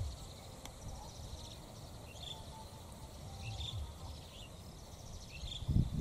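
Short, high chirps of small birds, about one a second, over a low rumble that swells near the end.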